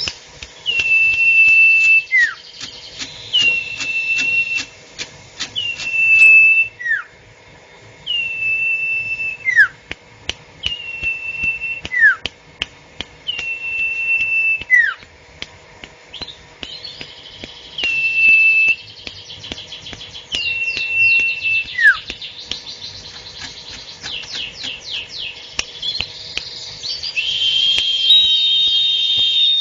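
Sirtu bird calling over and over. Each call is a steady high whistled note of about a second followed by a short falling whistle, repeated about every two and a half seconds, with faint clicks throughout. Near the end the calls overlap with other, higher whistled notes.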